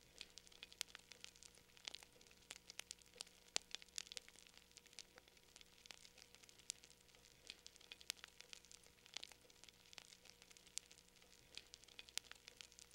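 Wood fire crackling in a fireplace, faint: irregular sharp pops and crackles, several a second, over a soft hiss.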